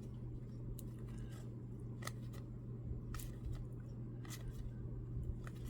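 Trading cards being handled and flipped through one by one, giving faint scattered clicks and light scrapes over a steady low electrical hum.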